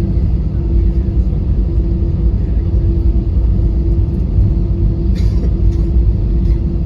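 Cabin noise inside an Airbus A320-214 taxiing after landing: a steady low rumble from the idling CFM56 engines and the wheels, with a constant hum over it and a couple of faint knocks about five seconds in.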